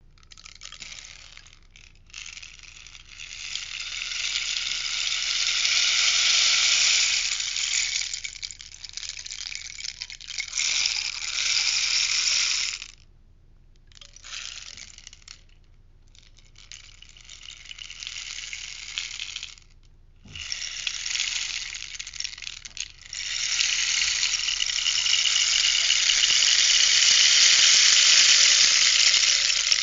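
Rainstick being tipped over and over: the beads inside trickle down in a rushing, rain-like patter that swells and fades with each pour, broken by short pauses as it is turned. The longest and loudest pour fills the last few seconds.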